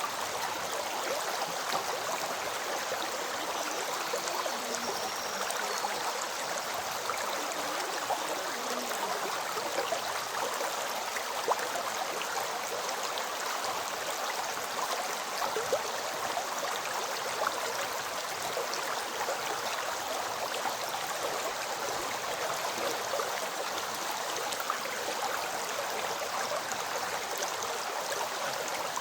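River stream flowing steadily over rocks: an even rush of water with small splashes and gurgles scattered through it.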